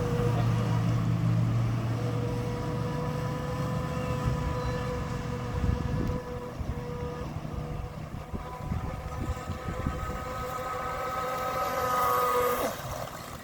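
Pro Boat Stealthwake RC boat's Rcharlance 3900KV brushless motor running on the water: a steady high whine over a low rumble. The whine rises slightly near the end, then drops away.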